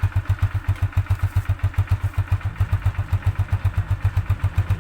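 Motorcycle engine idling, with an even, regular beat of about eight or nine low pulses a second.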